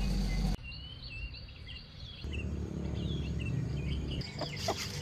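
Small birds chirping in short, repeated high notes over a low rumble, with abrupt changes in the background as if pieced together from several takes.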